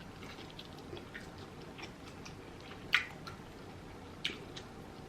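Close-miked chewing of rotisserie chicken: soft, wet mouth clicks, with two sharper smacks about three and four seconds in.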